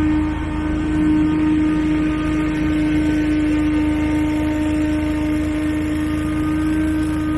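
Engine-driven power equipment running steadily at constant speed: a low rumble with a strong, steady whine.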